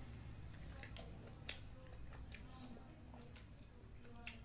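Quiet chewing of roti and rice with scattered short wet mouth clicks and smacks, the sharpest about a second and a half in.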